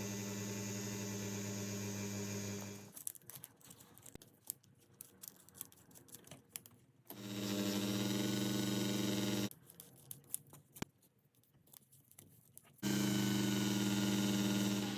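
A small electric bench machine runs in three spells with a steady hum, stopping in between. During the pauses there are small sharp clicks and taps of work on the watch.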